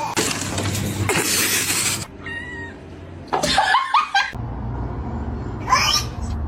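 A domestic cat meowing: a few short calls that rise and fall in pitch, after about two seconds of a rough hissing noise.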